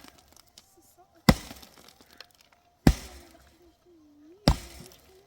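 Three sharp strikes on brick, about one every second and a half, each with a short ringing decay: a mason's tool knocking or cutting bricks.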